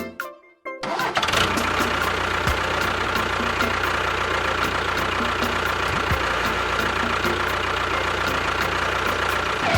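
A small motor running steadily with an even whirring noise, starting suddenly about a second in.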